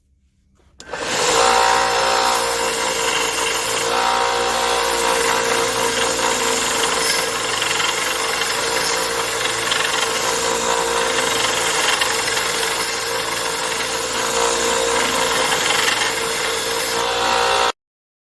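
An electric power tool's motor running steadily at constant speed with a strong hum, starting about a second in and cutting off suddenly near the end.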